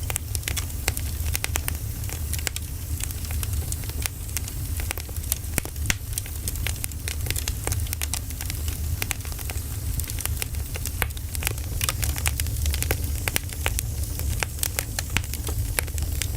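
Wood fire burning, with irregular crackles and pops over a steady low rumble.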